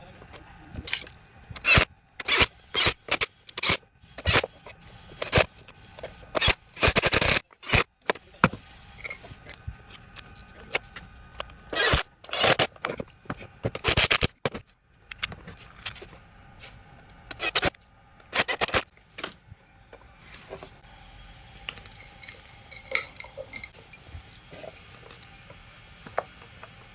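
Hand work on metal tool parts: a run of irregular clicks, knocks and short scrapes, then lighter small metallic clinks near the end. No motor is running.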